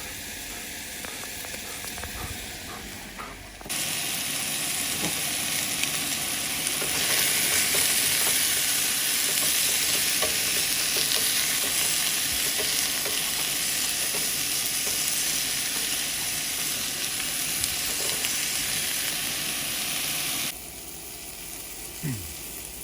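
Chicken wings sizzling as they fry, a steady frying hiss that jumps louder about four seconds in and drops back shortly before the end.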